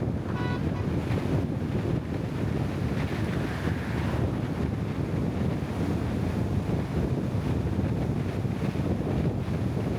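Steady low rumble and wind noise of a vehicle in motion, with a brief high-pitched tone about half a second in.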